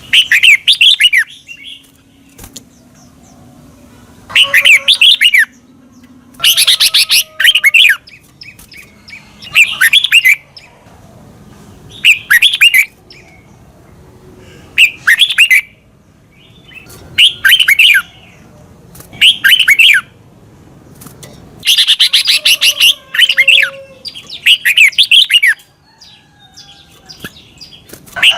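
Red-whiskered bulbul singing: short, loud phrases of quick rising and falling whistled notes, about one every two seconds, with brief pauses between them.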